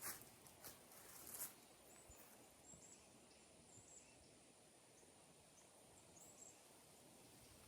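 Near silence: faint outdoor ambience, with a few light clicks in the first second and a half and faint high chirps scattered through.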